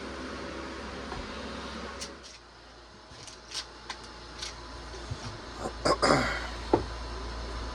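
A steady hum cuts off about two seconds in, followed by clicks and knocks of handling the Pioneer P-41 chainsaw. Near the end come a few short zipping pulls of its recoil starter rope, whose rewind spring or rope is faulty.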